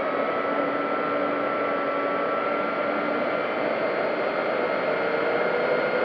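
Electric motor and propeller of an RC P-40B Warhawk model plane running steadily under a rush of wind noise, heard from a camera on board. The whine holds nearly one pitch, drifting a little.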